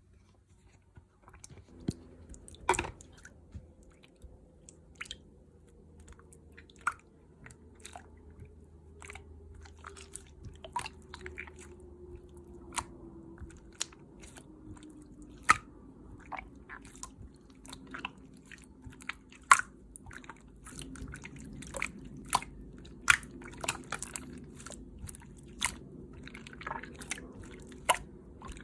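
Clear slime with mermaid pearl beads being pressed and worked by hand, giving sharp wet pops and clicks about once a second. The pops come faster in the second half.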